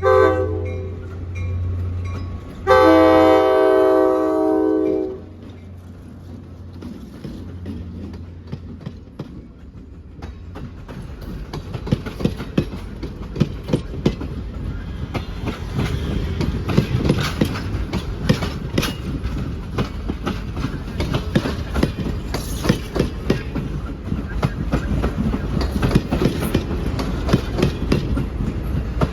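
Locomotive horn: the tail of one blast, then a long chord blast of about two and a half seconds a few seconds in. Then a train rolls by, a growing rumble with rapid clacks of wheels over rail joints.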